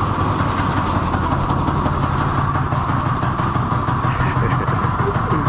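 Small pull-start go-kart engine running steadily, at an even level, before being driven off.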